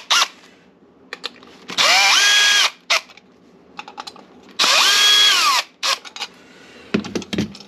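Cordless drill running in two bursts of about a second each; each time it spins up to a steady high whine, then stops. A few light clicks come between the bursts.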